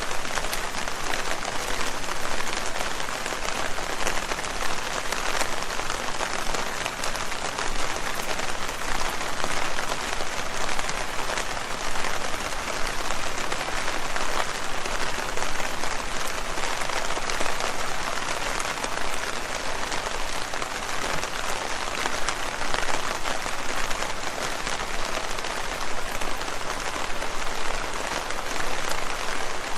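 Steady rain falling on leaves: a dense, even patter of countless drops.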